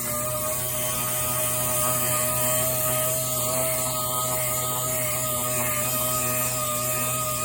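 Power sander running steadily with an even motor whine, sanding down primer on steel truck body panels.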